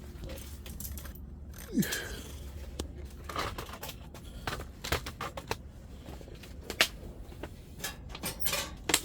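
Irregular scraping, tearing and clicking from hands working at a wood-burning stove, with a brief falling squeak about two seconds in.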